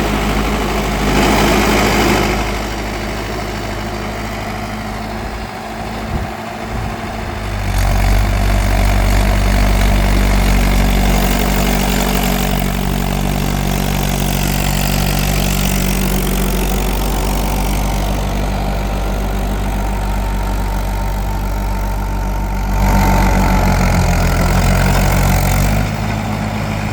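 Mahindra tractor's diesel engine running steadily. It drops quieter about two seconds in, picks up again about eight seconds in, and swells louder once more a few seconds before the end.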